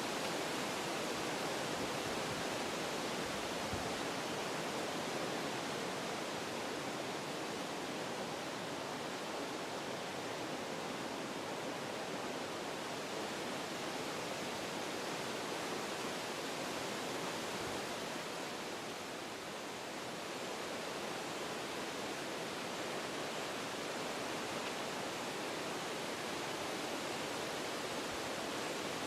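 Wind blowing through forest trees, a steady rush through leaves and branches that eases slightly about two-thirds of the way through.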